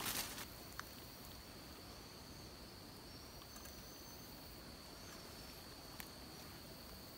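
Faint tropical forest ambience: insects droning steadily on one high pitch, with a few faint short bird calls above it. Two soft clicks, about a second in and about six seconds in, and a brief rustle at the very start.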